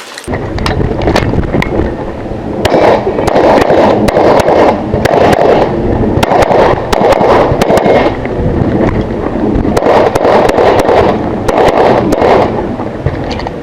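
Repeated pistol shots from a .40 S&W competition pistol fired in quick strings through a practical shooting stage, over a loud, steady rushing noise.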